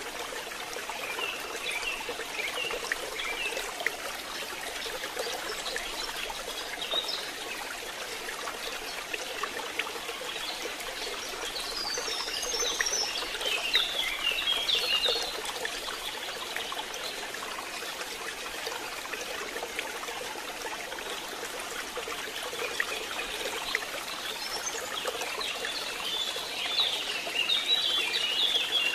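Rain falling steadily, an even watery hiss with a trickle of runoff. Spells of quick, high chirps sound over it about a second in, again midway, and near the end.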